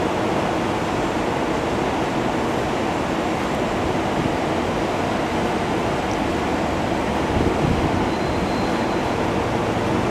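SEPTA Silverliner V electric multiple-unit train stopped at the station platform, its equipment giving a steady hum and rush. A brief low thud about seven and a half seconds in.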